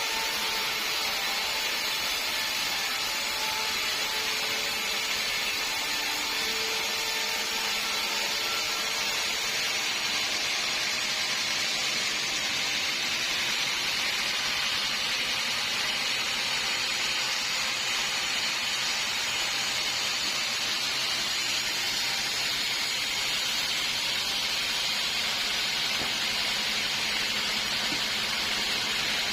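Sawmill saw cutting through a redwood log: a steady hissing rush of noise, with a faint whine in the first nine seconds or so.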